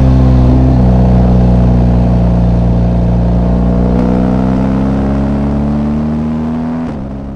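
BMW R 1250 GS Rally's flat-twin boxer engine running under way. Its note drops about a second in, climbs slowly for several seconds, drops again near the end, then fades away.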